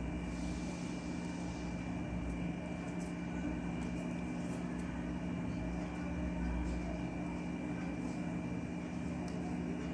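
Steady machine hum with a few faint light ticks over it.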